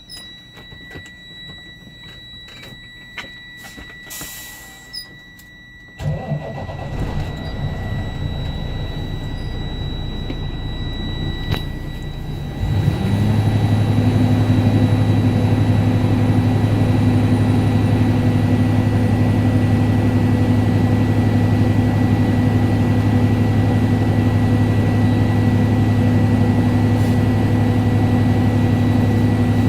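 Truck's diesel engine cranked and started about six seconds in, then brought up to a louder, steady high idle about thirteen seconds in to build air pressure back to full tanks. Before and during the start, the low-air warning buzzer sounds as a steady high beep tone.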